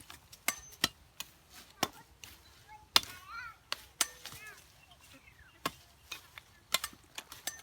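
A dozen or so irregular, sharp knocks and clacks of hard objects striking one another, with a few brief chirping sounds around the middle.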